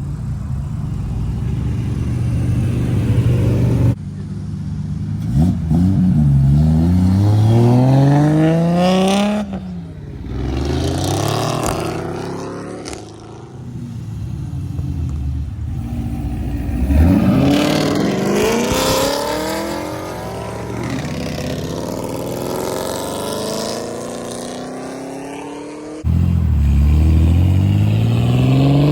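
Supercar engines revving and accelerating hard through their exhausts, the pitch climbing steeply several times as the revs rise. The sound changes abruptly about 4 seconds in and again near the end, as one clip cuts to the next.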